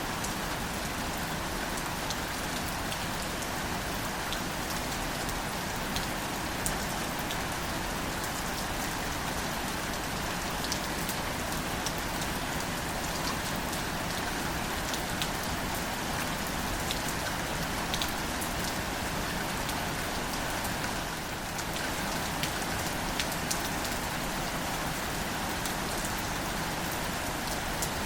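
Steady gentle rain falling on greater celandine wildflowers and their leaves: an even hiss scattered with individual drop ticks, easing slightly for a moment about two-thirds of the way through.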